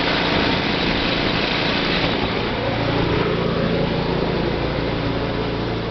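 Small snowblower engine running steadily, with a dense hiss over it and a slight shift in pitch a couple of seconds in.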